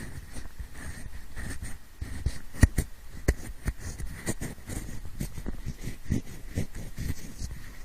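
Pencil rubbed and tapped close against a microphone in imitation of ear cleaning: irregular scratchy rustles broken by sharp clicks, the loudest a few clicks around three seconds in.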